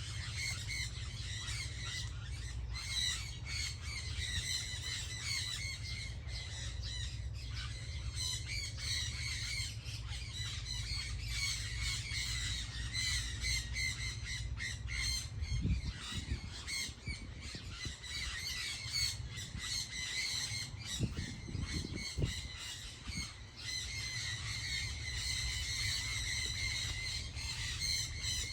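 A chorus of many birds chirping and squawking without pause, over a steady low rumble. A few dull low thumps come about halfway through and again a few seconds later.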